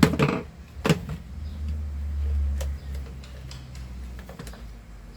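Scattered clicks and taps of plastic parts of a handheld vacuum cleaner being handled and set down, over a low hum that fades about three seconds in.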